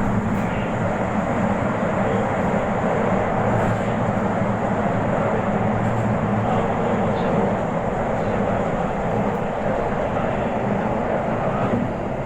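Toei Asakusa Line 5500-series electric train running at speed: a steady roar of wheels on rail and traction equipment.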